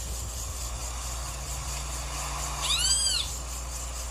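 A single high-pitched animal call that rises and falls, about half a second long, roughly three seconds in, over a steady low hum.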